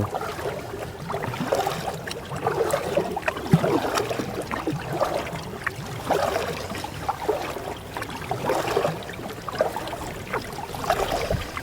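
Canoe paddle strokes in river water: a repeated splash and trickle about once a second as the paddle dips and water runs off it.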